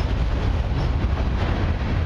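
Freight train's autorack and tank cars rolling past close by: a steady rumble of steel wheels on the rails.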